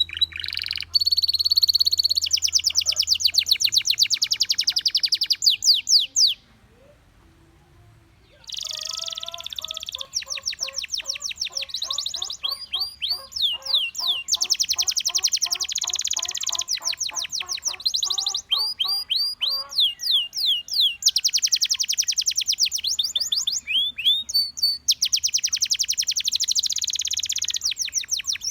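Canary singing in long rapid trills of repeated high notes, changing from one trill to the next, with a brief pause a few seconds in.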